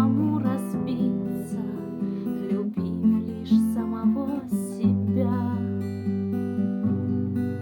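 Instrumental passage of a song: acoustic guitar chords over held low bass notes, the harmony changing every second or two.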